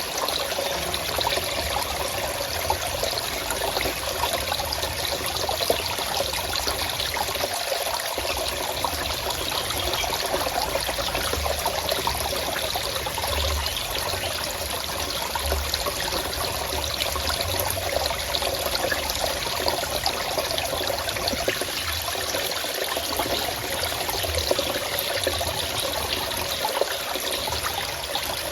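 Running water in a forest, flowing and trickling steadily with no breaks.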